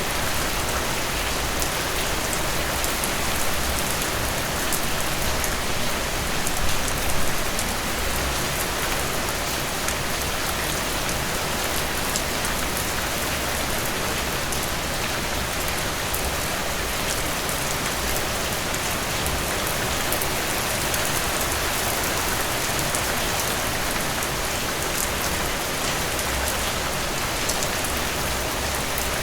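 Steady heavy rain falling on a surface, a dense even hiss with fine patter of individual drops, swelling slightly a few seconds in.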